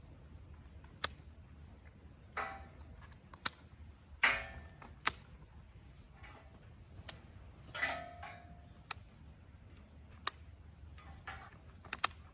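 Wood fire crackling, with sharp, irregular pops from the burning wood over a low steady rumble, and a few longer rustling flare-ups.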